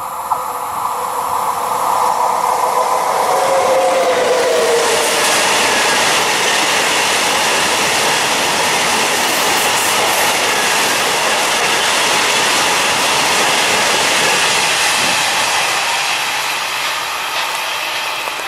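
Freight train of bulk powder tank wagons passing close by at speed: a tone falls in pitch over the first few seconds as the head of the train goes by, then the steady rumble and clatter of the wagons' wheels on the rails, easing off near the end as the train draws away.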